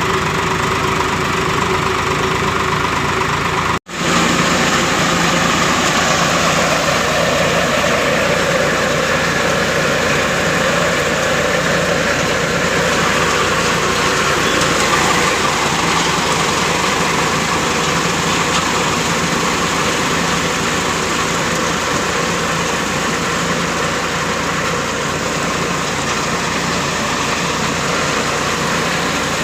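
Tractor engine running steadily while driving a fodder (chaff) cutter machine. The sound cuts out for an instant about four seconds in, then carries on unchanged.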